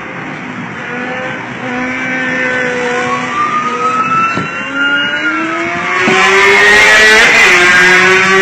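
Motorcycle engine revving as it accelerates alongside, its pitch climbing and then dropping at a gear change near the end, over a rush of wind and road noise that is loudest in the last couple of seconds.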